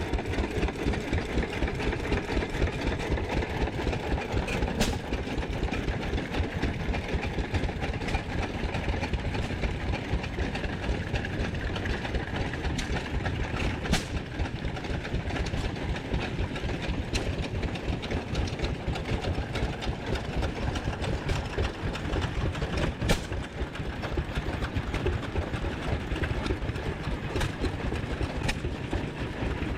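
Several vintage engines running at once, making a dense, steady chugging. A few sharp clicks stand out, about 5, 14 and 23 seconds in.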